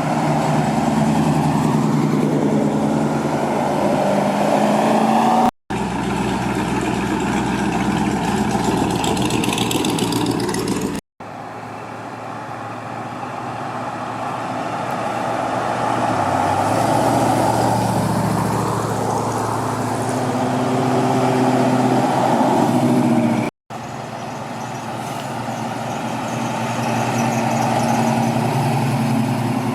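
Car engines running as cars drive past, each growing louder and then fading, heard in four short clips joined by abrupt cuts.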